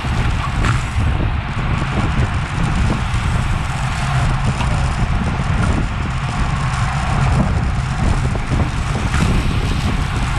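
Wind buffeting the microphone of a bicycle racer's action camera at race speed, a steady low rushing with road noise underneath and a few faint clicks.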